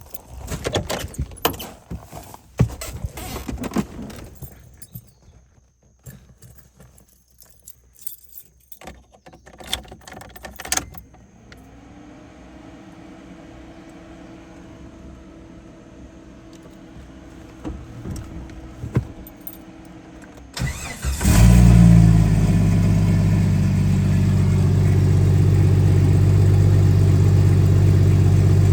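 Clicks and rattles, then a faint steady hum, then about three-quarters of the way through the starter cranks briefly and the turbocharged Jeep 4.0 straight-six catches on a cold start and settles into a steady idle.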